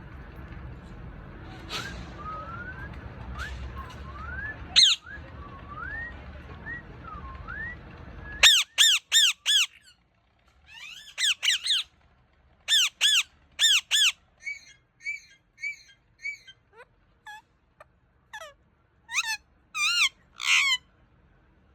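Pet parrot calling: first a series of rising whistled notes over a steady hiss, then, after an abrupt drop in the background about eight seconds in, loud harsh squawks in quick runs of four or five, with softer chirps in between.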